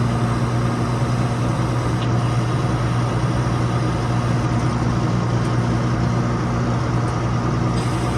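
Diesel engine idling steadily with an even, unchanging drone.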